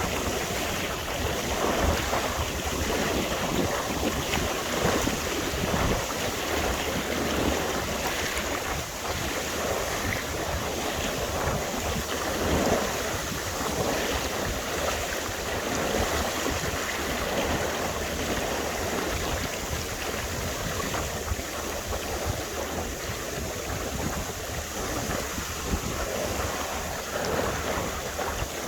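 Wind buffeting the microphone over the wash of water along a sailing yacht's hull, a steady rushing noise that swells a little now and then. No engine is running; the boat is under sail alone.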